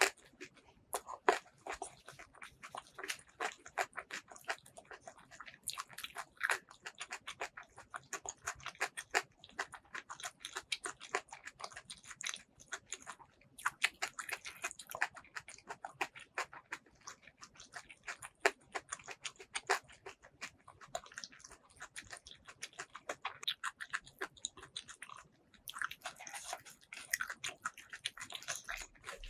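A person chewing food close to the microphone: many small, irregular wet mouth clicks and crackles, with two short pauses, about thirteen seconds in and near the end.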